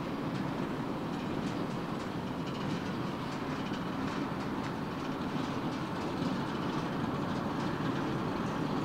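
Freight cars of a Union Pacific manifest train rolling past: a steady rolling noise with faint clicks from the wheels.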